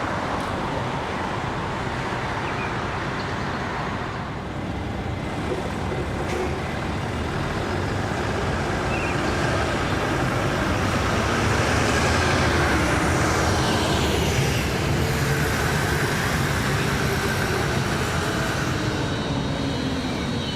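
Tram moving with a steady rolling rumble that swells to its loudest about halfway through and then eases off. In the second half, its electric drive whines in tones that slide in pitch.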